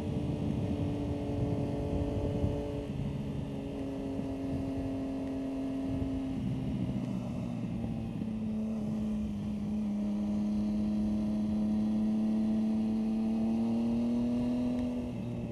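Motorcycle engine running at speed on a wet track. Its note steps down about six and eight seconds in, then climbs slowly under acceleration and drops off near the end, over a steady rush of wind noise.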